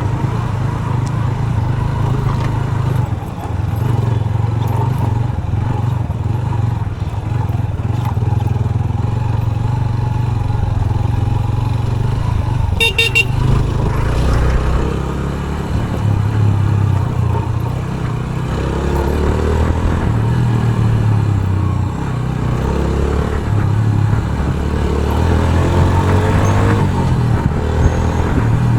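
Motorcycle engine running under way in traffic, its pitch rising and falling as the rider speeds up and eases off. A vehicle horn sounds briefly about 13 seconds in.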